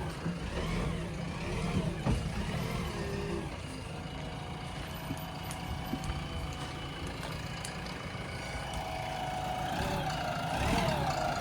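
Heavy diesel engine running steadily under load, with a steady whine joining about four seconds in.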